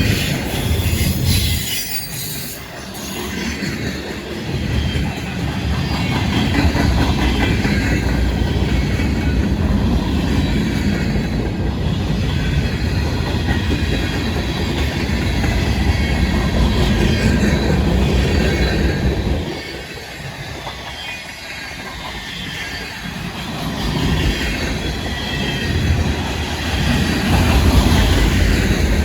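Freight train rolling past, its wheels rumbling on the rails with a thin, high wheel squeal over the top. The rumble drops back for a few seconds about two-thirds of the way through, then builds again.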